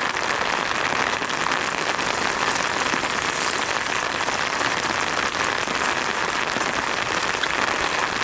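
Heavy rain falling steadily, a dense patter of many fine drop strikes.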